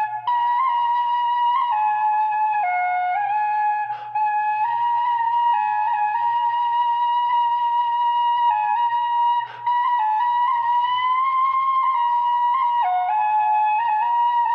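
Celtic flute playing a slow melody of long held notes with small slides between them, broken by short breaths about four, nine and a half, and thirteen seconds in.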